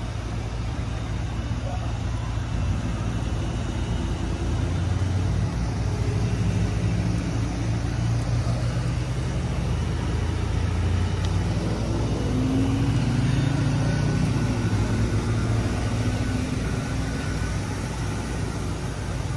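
Car engine idling: a steady low rumble that swells slightly about halfway through, with faint voices in the background.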